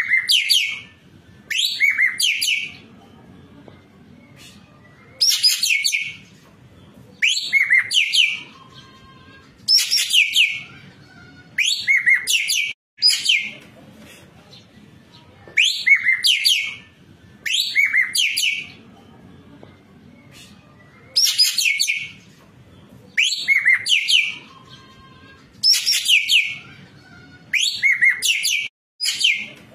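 Ekek keling bird singing a repeated chattering phrase of sharp, quickly rising and falling high notes, each phrase about a second long, sung about every two seconds. This is a tutor recording of the bird in full, varied song.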